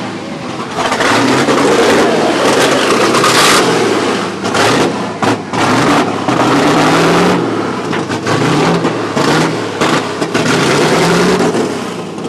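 Rally cars' engines revving hard several times as they pull away, the pitch climbing and dropping with each rev.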